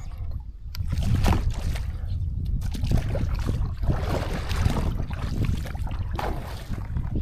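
Water splashing and sloshing around a small boat, with irregular knocks and a steady low rumble of wind on the microphone.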